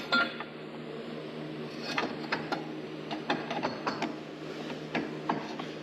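Light metallic clinks and taps of steel tubing being handled and test-fitted against a roll cage, a cluster of irregular knocks from about two seconds in.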